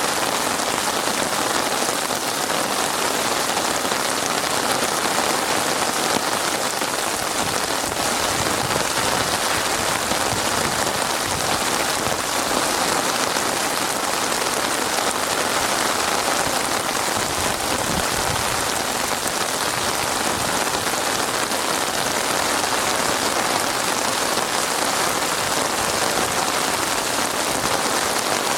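Heavy rain falling and pattering on surfaces, a dense steady hiss of many drops.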